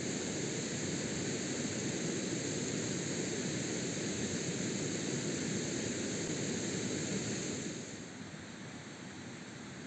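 A steady rushing noise with no clear rhythm or pitch, which drops off sharply about eight seconds in.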